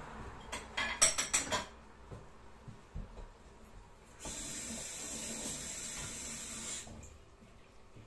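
Metal utensils clattering against pots and plates in a quick run of clinks about a second in, then a kitchen tap running steadily for about two and a half seconds.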